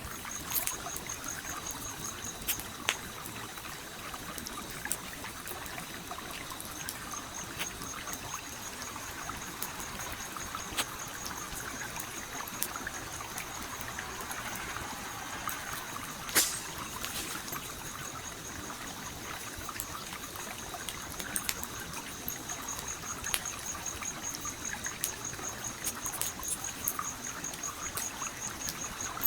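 Campfire crackling with scattered sharp pops over a steady flowing stream, with one louder pop about halfway through. A high, fast pulsing trill runs in the background and pauses for a few seconds near the start.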